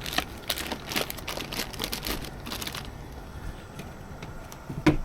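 Rustling and crinkling from things being handled, in quick short bursts for a few seconds, then a single dull knock near the end.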